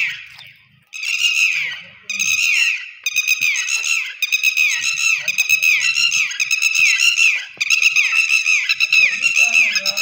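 A bird squawking over and over: short harsh calls, each dropping in pitch, in brief runs at first and then in a quick unbroken series of about three a second from about three seconds in.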